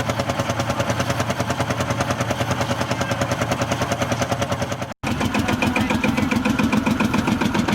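Engine running with a rapid, even beat of exhaust pulses, several a second. About five seconds in the sound cuts abruptly to another engine running with a different sound.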